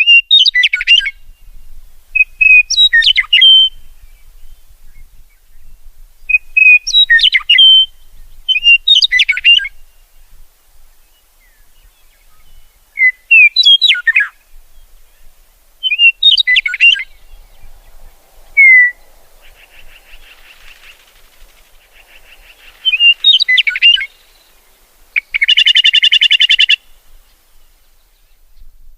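A songbird singing short, loud, quickly sweeping phrases, repeated every two to three seconds, with a harsh buzzy note near the end.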